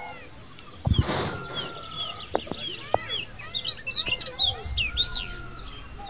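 Several birds chirping and twittering in quick, overlapping calls: short arched chirps repeating, with higher sliding notes clustering in the middle. A loud, noisy burst about a second in and a few sharp clicks are mixed in.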